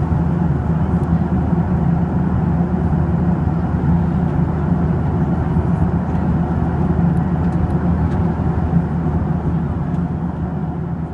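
Steady cabin drone of a Boeing 737-800 in flight, the rumble of its CFM56 engines and airflow heard from a window seat over the wing, easing slightly near the end.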